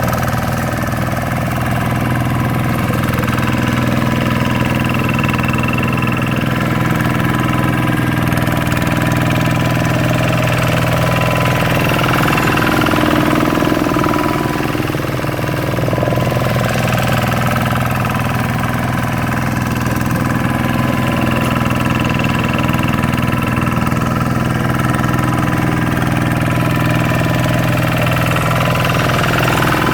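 Single-cylinder diesel engine of a Kubota RV125-2 two-wheel hand tractor, running steadily, its pitch dipping and recovering briefly about halfway through.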